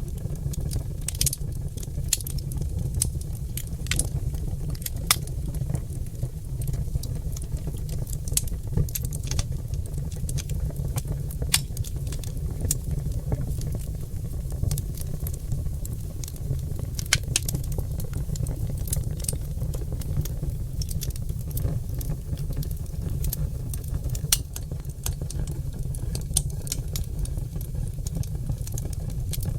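Oak log fire in a fireplace crackling and popping, with sharp irregular pops over a steady low rumble of burning.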